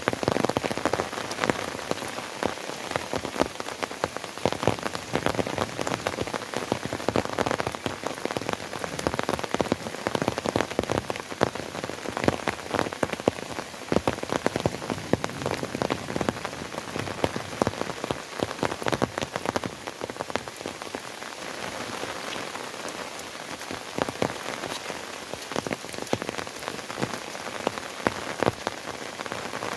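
Steady rain falling, with many sharp individual drop strikes heard close by over the constant hiss of the downpour.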